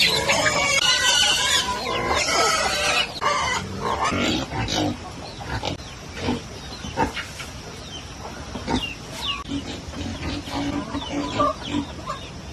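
Chickens clucking, loudest in the first few seconds, with scattered sharp knocks and taps.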